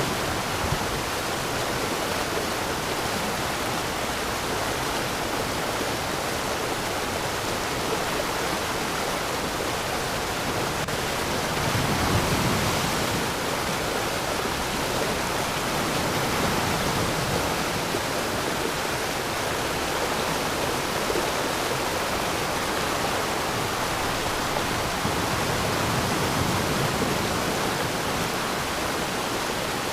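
Waterfall: water falling and rushing in a steady, even roar, swelling slightly about twelve seconds in.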